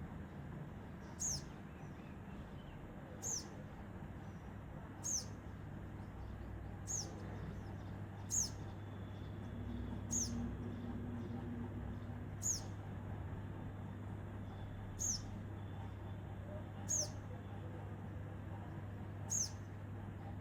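A single bird repeating one short, high, downward-slurred call about every two seconds, ten times in all. A steady low hum runs underneath.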